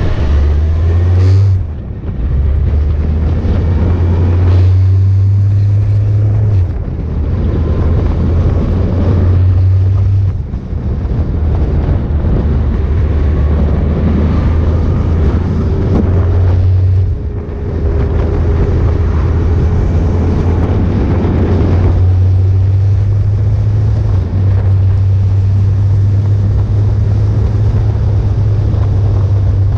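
Motorcycle engine running under way, with wind on the microphone. The engine note dips briefly a few times before picking up again.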